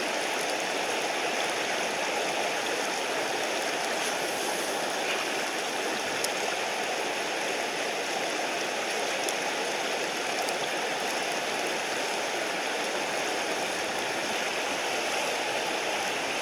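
Mountain stream rushing steadily, with a few faint ticks over it.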